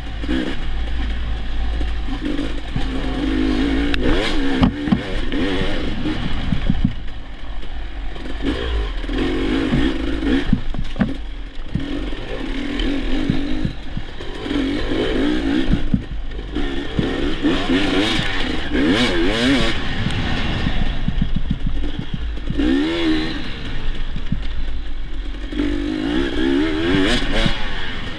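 Dirt bike engine revving up and falling back over and over as it is ridden, with clattering knocks from the bike over rough ground and a steady low rumble underneath.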